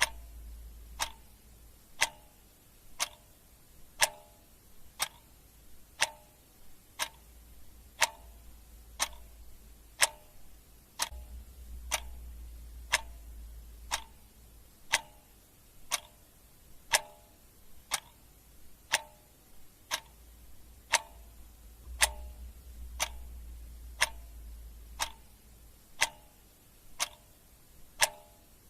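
Clock ticking with an even, regular tick-tock. A faint low rumble swells and fades underneath at times.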